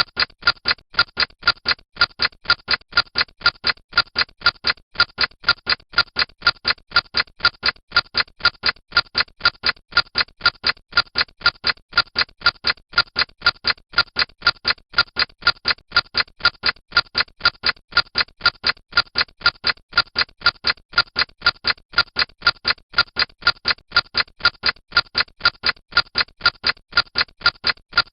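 Clock ticking with steady, evenly spaced ticks.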